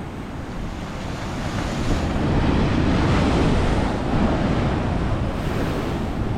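Sea waves breaking and washing over shoreline rocks, the rush swelling to a peak about halfway through and then easing, with wind buffeting the microphone.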